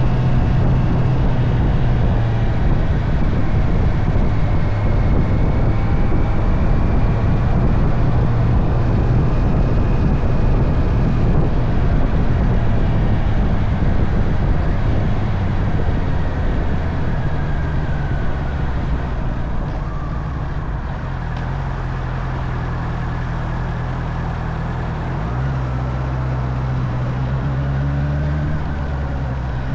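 Honda CB650R's inline-four engine running steadily under way, with heavy wind rush over it. The engine note shifts and rises a few seconds before the end.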